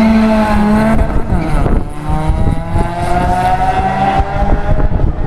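Stage 5 Saab B204 2.0 turbo four-cylinder in a Vauxhall Vectra B running loud and uneven with a bad misfire; its revs hold for about a second, then climb slowly for a few seconds.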